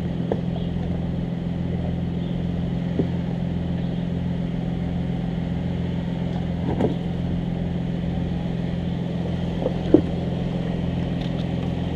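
Jeep Wrangler engine running steadily at a low crawling speed over rocks, with a few short knocks, the loudest about ten seconds in.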